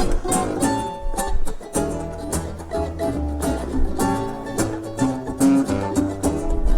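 An acoustic string band trio playing an original tune live, with a busy run of short plucked and picked string notes.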